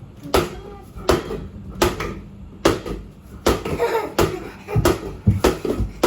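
A series of sharp thuds in a small room, roughly one every three-quarters of a second, coming faster near the end.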